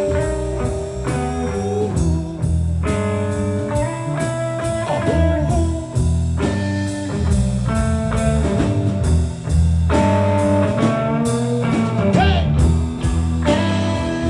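Blues band playing an instrumental stretch: electric guitar lines with bent notes over a repeating bass riff and a steady drum beat.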